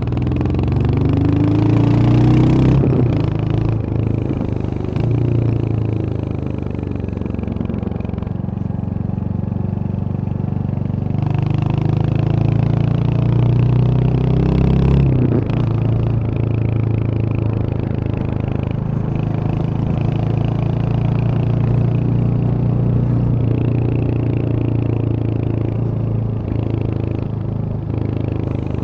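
Royal Enfield Hunter 350's single-cylinder engine running on the move. The revs climb in the first couple of seconds and again from about eleven to fifteen seconds, then drop at a gear change and settle into steady cruising.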